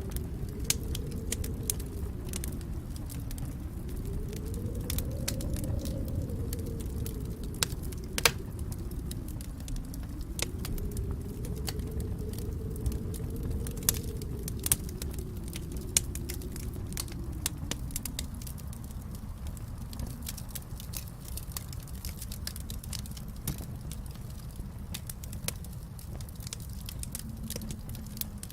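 Fireplace fire crackling, with frequent sharp pops over a low, steady rush of flame; one louder pop comes about eight seconds in.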